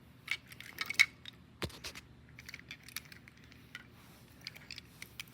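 Small die-cast metal toy cars being handled, with irregular light clicks and clinks as they are moved and tap against each other and the surface.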